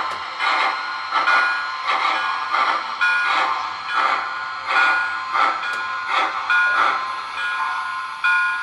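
Sound system of an MTH HO-scale model of the Erie 2-8-8-8-2 Triplex steam locomotive playing recorded steam exhaust chuffs at an even pace, about two to three a second, with short steady tones sounding among them, heard through the model's small onboard speaker.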